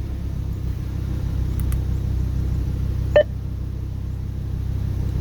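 Audi R8's V10 engine idling steadily, heard from inside the cabin, with a single short electronic beep about three seconds in.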